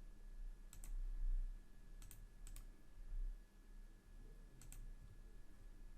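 Faint computer mouse clicks, four groups of them, mostly in quick pairs like double-clicks, over a faint steady low hum.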